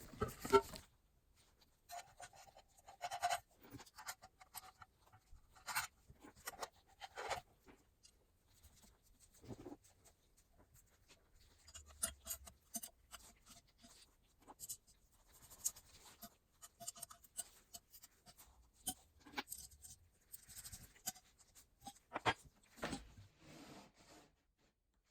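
Hand work on small parts: scattered light taps and clicks with stretches of scratchy rubbing, irregular and fairly quiet.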